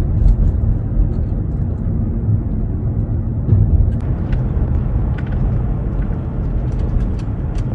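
Steady low rumble of a jet airliner's engines, with a few faint scattered clicks.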